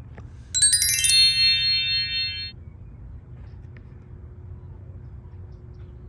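A bright, bell-like chime: a few quick strikes about half a second in, then several high tones ringing out and fading over about two seconds.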